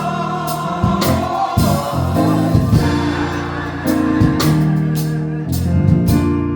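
Live gospel music: choir voices hold a note in the first second or so, then the band's bass and drums carry on with regular cymbal and drum strikes.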